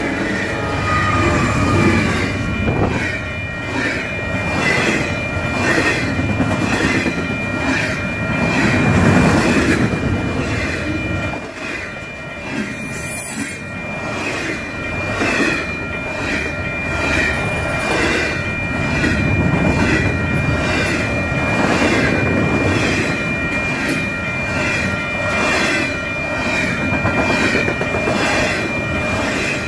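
Freight train passing close by: the diesel locomotives' heavy rumble for the first ten seconds or so, then the double-stack container cars rolling and clattering on the rails. Through it, a grade crossing bell rings steadily about twice a second.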